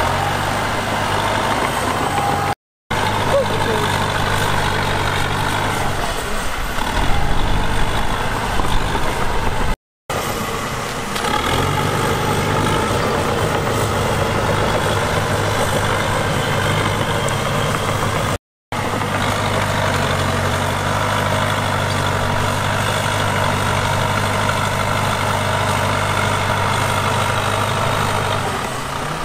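Heavy diesel engine of earthmoving machinery running steadily, getting louder and rougher for a few seconds near the middle. The sound drops out abruptly three times for a split second.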